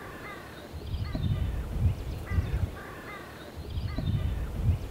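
Harsh bird calls, short falling cries coming in small groups that repeat every few seconds, over a low uneven rumble.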